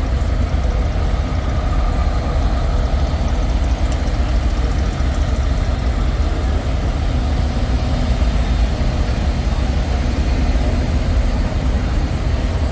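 Diesel semi-truck engines idling with a steady low rumble.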